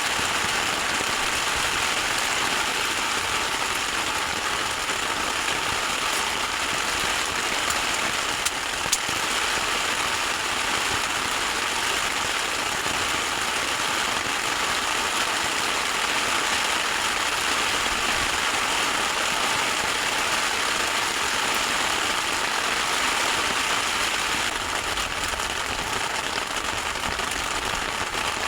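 Heavy rain pouring steadily, driven by wind: a loud, even hiss. Two small sharp clicks stand out about eight and a half and nine seconds in.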